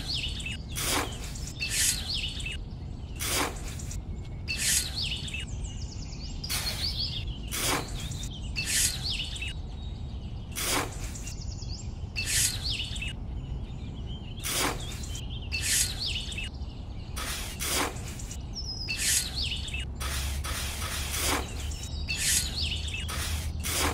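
Small hand trowel scraping and scooping damp sand in short strokes, about one a second, irregular. Birds chirp in the background over a steady low hum.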